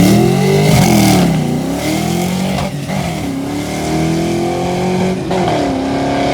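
Drag car accelerating hard down the strip, its engine revs climbing and then dropping sharply at gear shifts about three and five seconds in.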